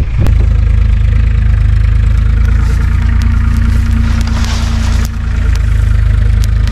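Tractor's diesel engine running steadily close by, with a deep even drone and a slight dip in level about five seconds in.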